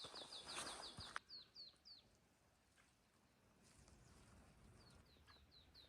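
A small songbird singing: a fast trill of high down-slurred chirps, then separate high down-slurred whistles repeated about three a second in short runs. Rustling noise under the first second cuts off abruptly.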